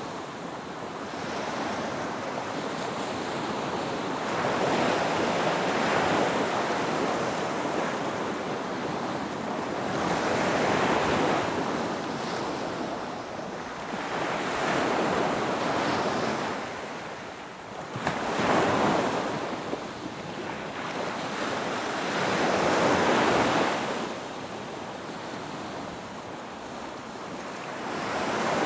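Ocean waves breaking on a beach: a steady wash of surf that swells and fades as each wave comes in, several times over, with some wind.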